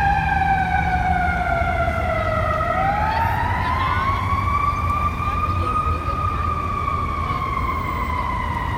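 Emergency vehicle siren with a slow wail: the pitch sinks for about two and a half seconds, climbs again and then slowly falls away. A steady low rumble runs underneath.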